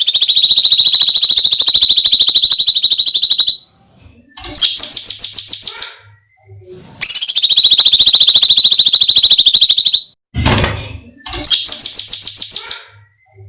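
Cucak cungkok songbird calling: a long, high-pitched screeching trill of very rapid notes lasting about three and a half seconds, given twice. Between the trills come shorter chattering phrases and, about ten seconds in, a brief harsh rasp.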